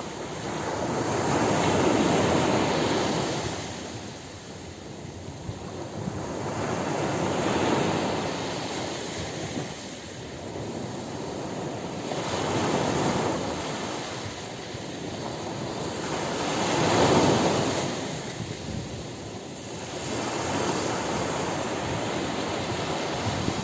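Ocean surf on a beach: waves breaking and washing in, swelling and fading about every five seconds, four times, the loudest about seventeen seconds in.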